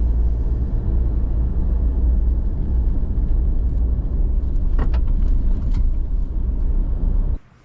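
4WD vehicle driving: a steady low engine and road rumble with a few light clicks and rattles about five seconds in. The rumble stops abruptly near the end.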